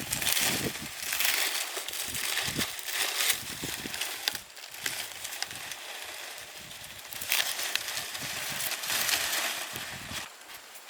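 Irregular rustling and crackling with a few short clicks, louder in stretches and dropping away near the end.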